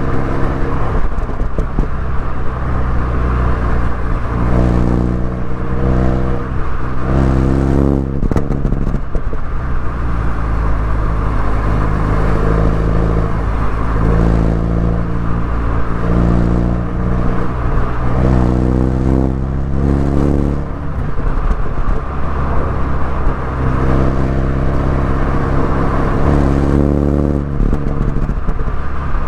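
MINI Cooper S engine and exhaust under way, the engine note rising and falling as it accelerates and eases off, heard over tyre and road noise.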